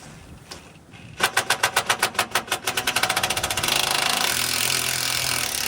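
Impact driver driving a screw into a pre-drilled hole: about a second in it starts a rapid rattle of hammer blows that speeds up into a continuous loud buzz and stops just after the end.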